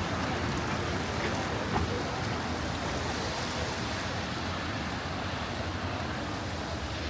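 Steady rushing hiss of a rainy city street: rain and street noise blending into an even wash, with no distinct events standing out.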